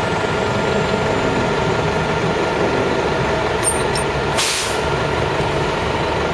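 A vehicle engine running steadily amid traffic noise, with one short, sharp hiss about four and a half seconds in.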